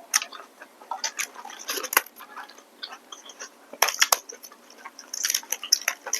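Close-up eating sounds of rice noodles with shrimp and vegetables: chewing, with irregular wet clicks and crunches.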